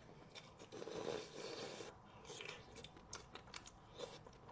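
Faint, close-miked chewing and biting sounds of someone eating, with soft wet mouth noises and a few small clicks.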